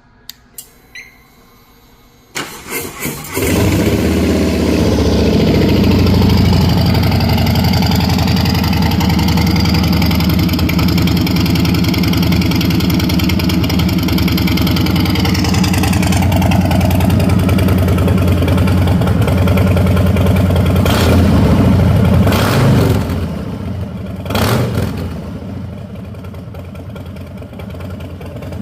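Harley-Davidson Street Bob V-twin with a Two Brothers Racing full exhaust being started: a few clicks, a brief crank, then the engine catches and runs loud and deep at a fast idle. The idle settles slightly lower partway through, a few short throttle blips follow, and it then falls back to a quieter idle.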